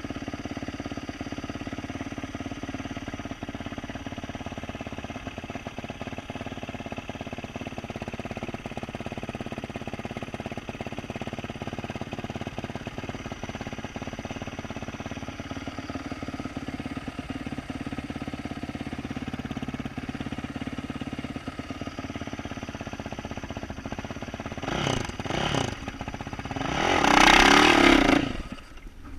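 2012 Yamaha YZ450F's single-cylinder four-stroke engine, fitted with an aftermarket exhaust, running steadily at a low idle. About 25 seconds in it gives two short throttle blips, then one loud rev, and the sound cuts off sharply just before the end.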